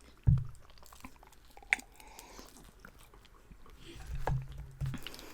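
Close-miked chewing and biting of pizza, with a dull low thump just after the start and scattered small clicks.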